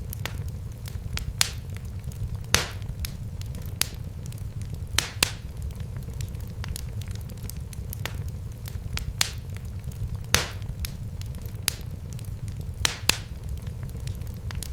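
Fire crackling in a fireplace: irregular sharp pops and snaps over a steady low rumble of the flames, with a handful of louder pops scattered through.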